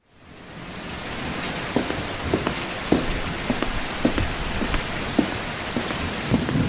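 Steady rain falling, fading in over the first second, with heavy drops landing close by in irregular single knocks about once or twice a second.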